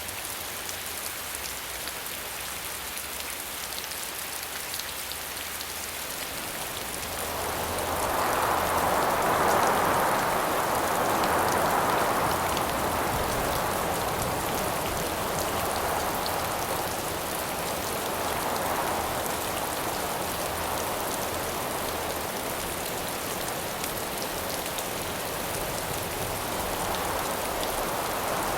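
Steady rain hiss, joined about a quarter of the way in by howling wind that rises to its loudest soon after, then swells and eases in slow gusts.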